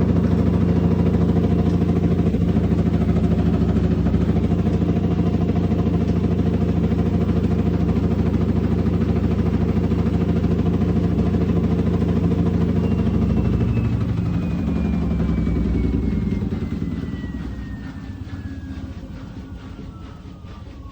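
Samsung washing machine, which its owner reports as knocking, spinning at high speed with a loud steady hum. From about two-thirds of the way in, it winds down: the drum motor's whine falls steadily in pitch and the running noise fades.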